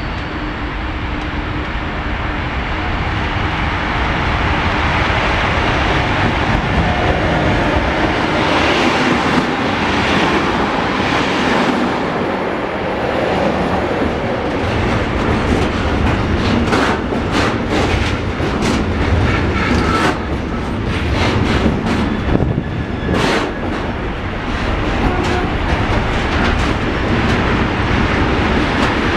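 Freight train passing through the station at speed: a loud, steady rush of wheels and wagons on the rails, with a run of clicks as the wheels cross rail joints over the second half.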